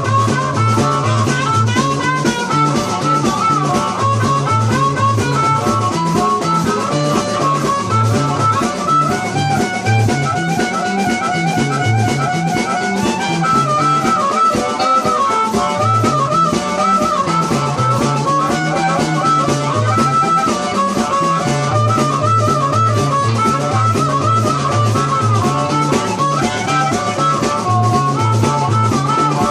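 Instrumental blues with a drum kit, a repeating bass line that rocks between two notes, and a wavering lead melody on top.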